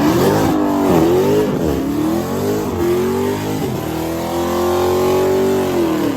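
Car engine revved hard: the revs rise and dip several times in quick blips, then are held high for about two seconds before dropping off at the end.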